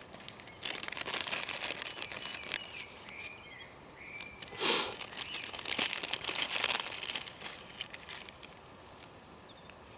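Dry crinkling and rustling in bursts of many small crackles, with one louder rustle about halfway through.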